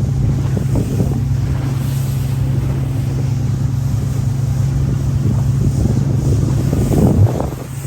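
Small rental motorboat's engine running steadily with a constant low drone, with wind buffeting the microphone. The level dips briefly near the end.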